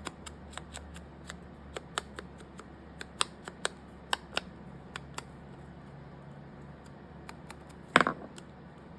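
Scissors snipping paper in a string of short, irregular snips over several seconds, followed by one louder knock with a brief ring near the end.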